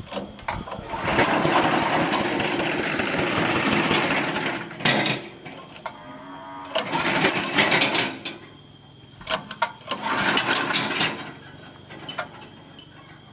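Forage chopper machine running, with three loud spells of crunching and clattering as material is fed through its blades, the first lasting about four seconds and the others a second or so each, with a steady high whine between them.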